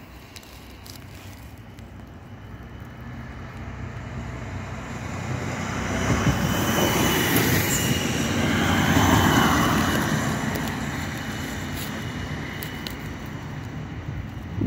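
Single-car Regio-Shuttle diesel railcar approaching and passing close by, its engine and wheels on the rails swelling to a peak about nine seconds in and then fading as it moves away. A high squeal from the wheels rings out while it passes.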